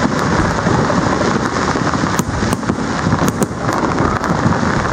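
Fireworks exploding: a continuous low rumble of bursts with many sharp cracks scattered through it.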